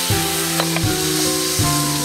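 Food sizzling hard in a skillet, with sake just poured in to steam-fry it, under background music with a steady beat.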